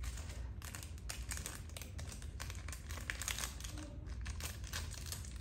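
Crinkling and rustling of handling, with many small irregular clicks and taps.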